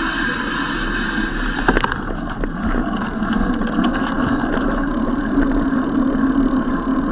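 Steady noise of riding a bicycle, with wind and road rumble on the microphone, a sharp knock a little under two seconds in and light rattles after it.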